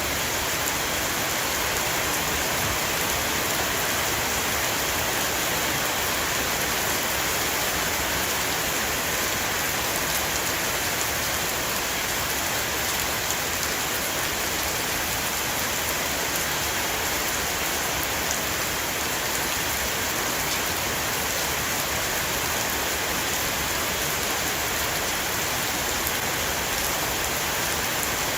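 Heavy steady rain falling on a roof, an even hiss with fine drop patter that does not let up.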